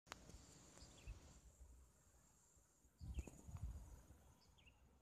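A bird giving short falling calls, three of them a second or two apart, over a faint steady high-pitched insect drone. Low rumbles come in about three seconds in.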